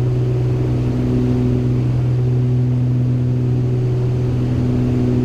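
Steady drone of a Beechcraft G58 Baron's twin piston engines and propellers heard inside the cabin, a strong low hum with a few steady tones above it, on final approach.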